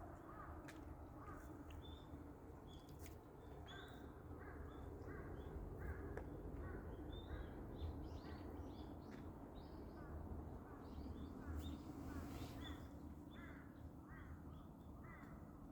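Birds calling, many short repeated calls one after another, over a faint steady low rumble.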